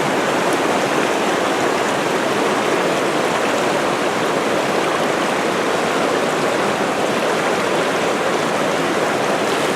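Rushing water of a mountain river or stream flowing over rocks: a steady, unbroken rush.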